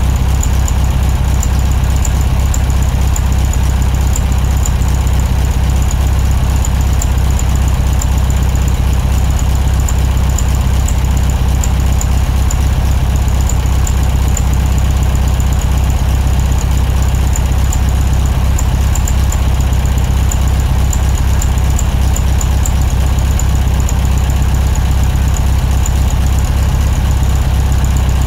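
Classic VW Beetle's air-cooled flat-four engine running steadily, a low, even drone with a steady high-pitched whine above it.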